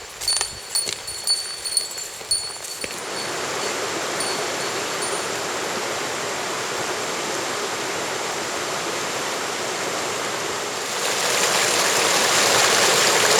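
Mountain stream rushing steadily over rocks, growing louder about eleven seconds in. In the first few seconds there are a handful of sharp clicks and faint high ringing tones.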